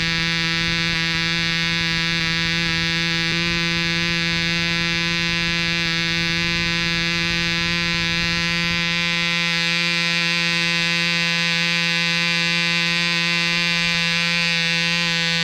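Webra 1.5 cc two-stroke model-airplane diesel engine running at a steady high speed, a loud, even buzzing whine that holds one pitch throughout.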